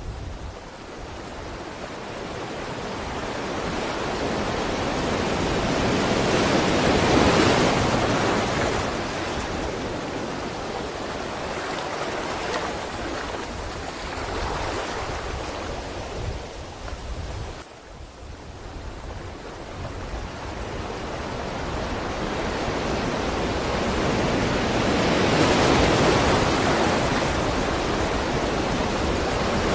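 Ocean surf: waves breaking and washing up, the rush swelling and fading slowly, with two big surges about a quarter of the way in and near the end.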